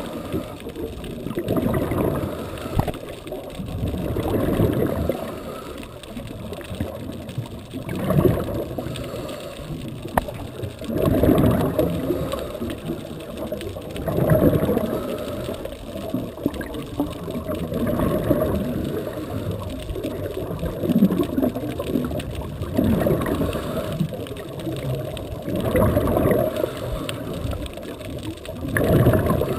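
Scuba regulator exhaust bubbles gurgling underwater, a burst of bubbles every two to three seconds as the diver breathes out.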